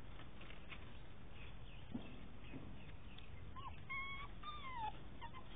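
Beagle puppy giving a few short, high whimpers that slide in pitch, about three and a half seconds in, over a faint background.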